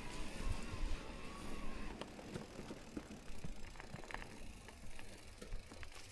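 Amflow electric mountain bike riding over a trail: low rumble of tyres and wind, with scattered clicks and rattles from the bike.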